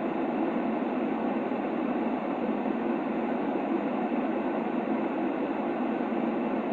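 Steady white noise for a baby's sleep, filtered to a soft, muffled hiss with its weight in the low-middle range and no high end. It runs without any change, rhythm or clicks.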